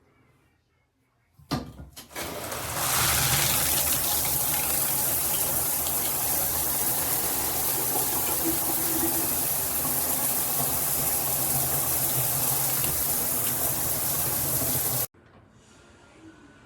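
Shower head spraying water: a click about a second and a half in, then a steady loud rush of water that builds up and runs evenly until it stops abruptly near the end.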